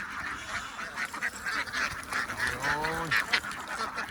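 A large flock of farm ducks quacking in a dense, continuous chorus, with one longer drawn-out call about two and a half seconds in.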